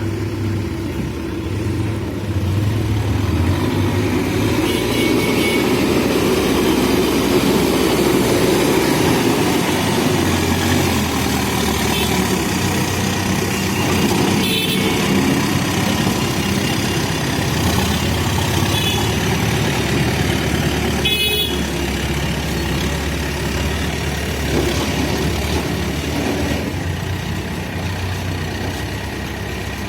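Backhoe loader's diesel engine running steadily while it works, with short horn toots from traffic and a couple of sharp knocks.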